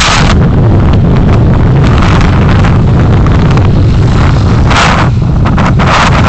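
Wind buffeting a moving vehicle's microphone over a steady, loud low rumble of road and engine noise, with gusts of hiss swelling up several times.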